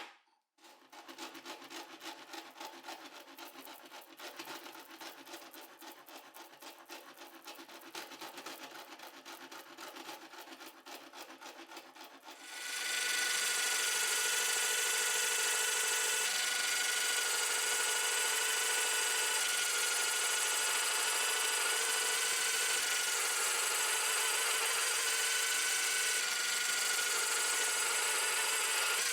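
Quick, even rubbing or rasping strokes on wood for about twelve seconds. Then a power tool starts and runs steadily and louder, with a high whine.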